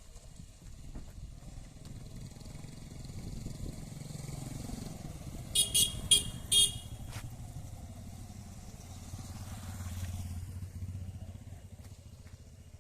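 A motor vehicle running by on a road, with four short horn beeps in quick succession about halfway through, then engine noise swelling again near the end.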